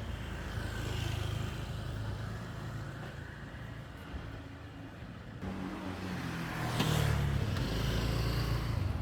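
Road vehicle engine noise, a steady low drone that shifts abruptly about five seconds in and gets louder near the end.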